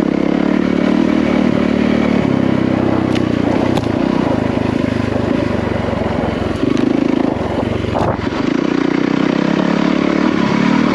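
Yamaha WR450F dirt bike's single-cylinder four-stroke engine running under load as the bike is ridden on a trail, the throttle easing off and opening again several times, with a few brief knocks from the bike over rough ground.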